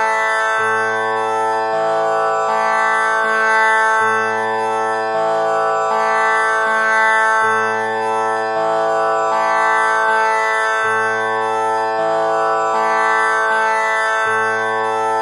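Tanpura drone tuned to A, its strings plucked one after another in a repeating cycle about every three and a half seconds, each note ringing on into the next as a continuous drone.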